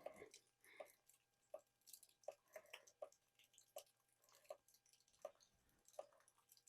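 Near silence broken by faint, irregular ticks, about one every half second to a second, like raindrops landing near the microphone.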